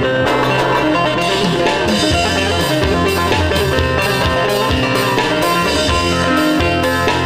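Live Turkish folk music on amplified plucked string instruments over a steady drum beat.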